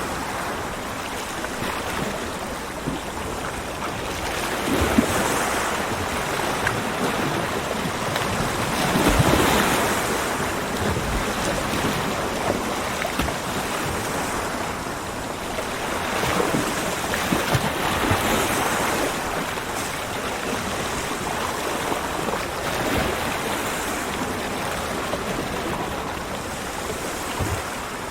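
Ocean waves breaking on a beach, a continuous wash of surf that swells and recedes every several seconds, loudest about nine seconds in.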